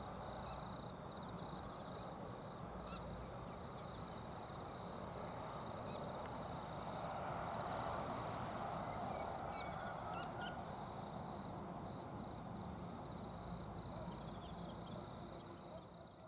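Short, high bird chirps, single notes scattered through and a quick group of three about ten seconds in, over a steady outdoor rushing background and a thin, steady high tone.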